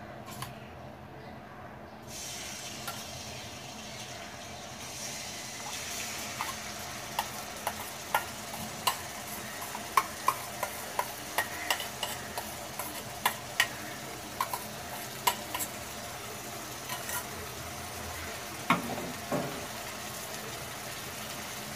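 Prawns sizzling in hot mustard oil in a kadai; the sizzle starts suddenly about two seconds in. From about six seconds on, a spatula clicks and scrapes against the pan many times as they are stirred.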